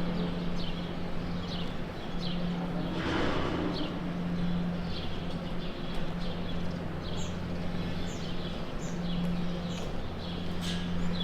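Dairy barn ambience: a steady low machine hum under many short, high bird chirps repeating throughout, with a brief rushing noise about three seconds in.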